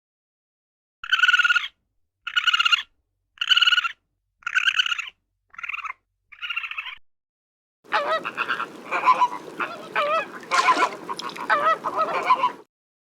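Waterfowl calling: six single calls about a second apart, then, after a short gap, many birds of a flock calling over one another until shortly before the end.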